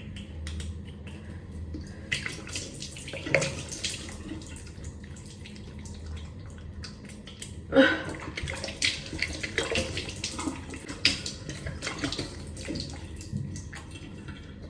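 Water splashing and dripping in a bathroom sink as a face is washed with handfuls of water, in irregular small splashes, with one sharper knock about eight seconds in.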